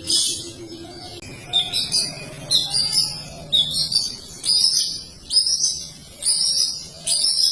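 Long-tailed shrike (cendet) singing a fast run of shrill, repeated phrases, about one a second, each sweeping sharply up at its start.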